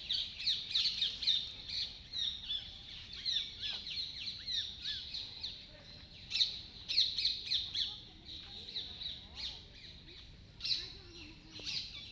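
Many birds chirping together: quick, high, short chirps overlapping throughout, with louder bunches near the start, about six to seven seconds in, and again around eleven seconds.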